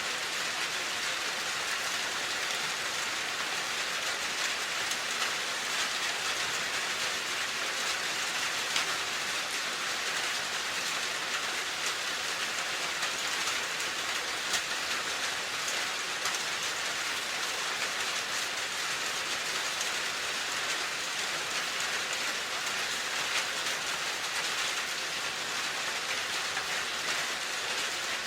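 Steady rain falling: an even hiss of rain on a surface, with scattered small drop ticks.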